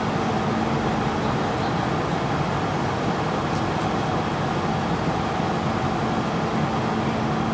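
MTR metro train running with a steady rumble, a low hum showing near the start and again near the end.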